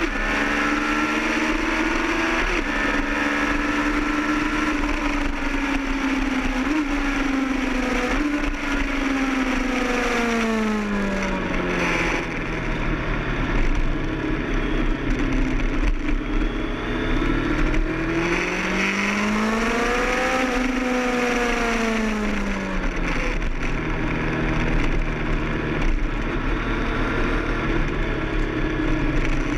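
Kawasaki ZX-10R's inline-four engine at full pace on track, heard onboard over rushing wind: the revs climb and hold, drop sharply about ten seconds in as the bike slows for a corner, rise again to a peak around twenty seconds, then fall once more.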